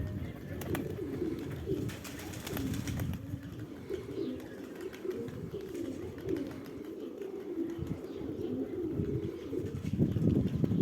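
Domestic pigeons cooing, several wavering coos overlapping without a break.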